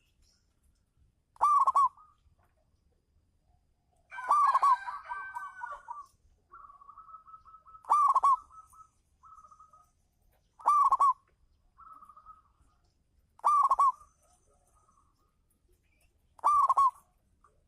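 Zebra dove cooing: six short, loud coo phrases about three seconds apart, the second one longer and more elaborate, with softer trilling coos in the gaps between them.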